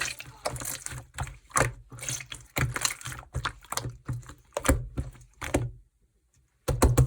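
Jelly-textured slime being squished and pressed by hand, giving sticky, crackly clicks and pops about twice a second. The sounds stop for about a second near the end, then start again.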